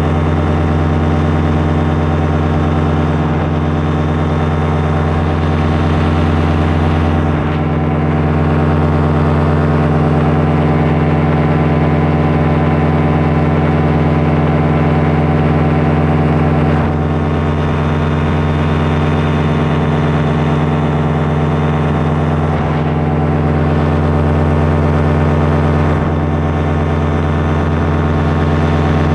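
Small aircraft's engine and propeller running at a steady speed, with slight dips in loudness three times.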